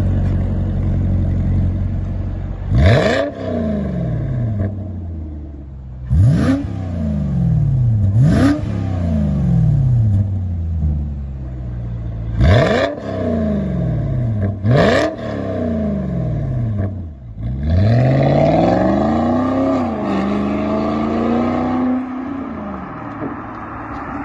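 Volvo-Yamaha 4.4-litre V8 idling, then revved in five quick blips that rise and fall sharply. Later comes one longer rev that eases down to a held, faster running speed.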